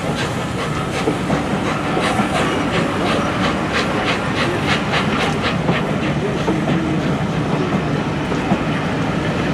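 Train passing on the line, its wheels clicking in regular pairs over rail joints, with a steady engine hum underneath. The clicking is strongest a couple of seconds in and fades out a little past the middle.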